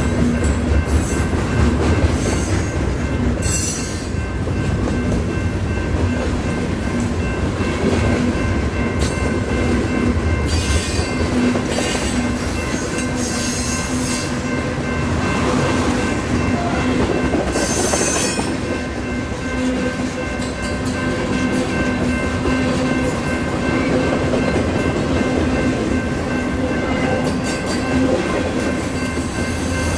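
Freight cars of a mixed freight train rolling past at close range: a steady rumble of wheels on rail, a few sharp clanks, and a steady wheel squeal ringing over it.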